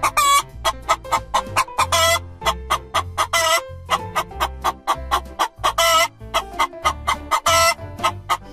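Domestic chicken clucking in quick runs of short clucks, broken by several longer, drawn-out squawks.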